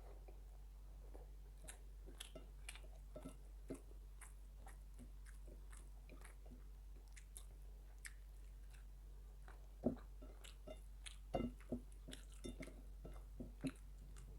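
A person chewing food close to the microphone: irregular wet mouth clicks and smacks, denser and louder from about ten seconds in.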